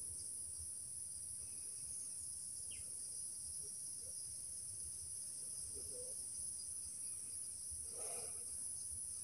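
Steady, high-pitched chorus of insects such as crickets, with a faint low rumble beneath it.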